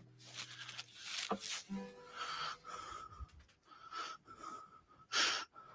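Raspy, wheezing breaths in a series of short bursts, the loudest near the end.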